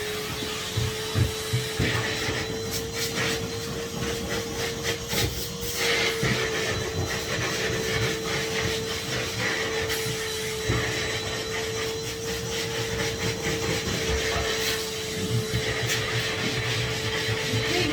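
Henry HVR200 620 W canister vacuum cleaner running steadily with a constant whine, its nozzle repeatedly knocking and scraping along the stair treads and edges.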